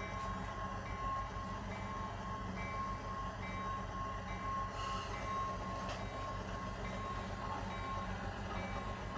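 Model locomotive sound decoder playing a GE 7FDL-16 diesel engine through its small onboard speaker, running steadily as the model sets off, with a tone repeating about every two-thirds of a second over the engine hum.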